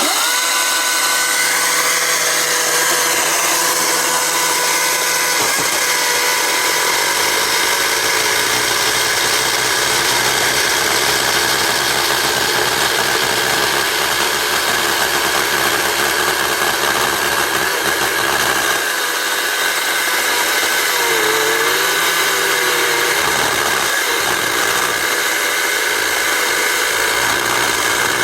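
Husqvarna 350i battery chainsaw, its electric motor driving an oversized 24-inch bar and chain, running steadily with a high whine. The pitch sags and wobbles briefly about two-thirds of the way through, then recovers.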